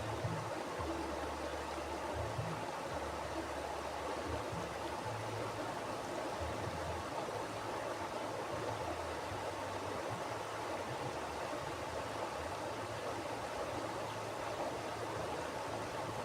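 Mountain river flowing over rocks: a steady rushing of water with a low rumble that comes and goes beneath it.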